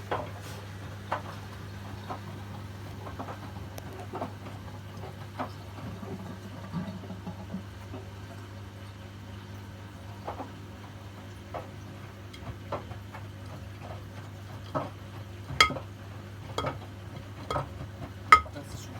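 Miele washing machines running together, with a steady low hum and irregular clicks and clinks as the laundry turns in the drums.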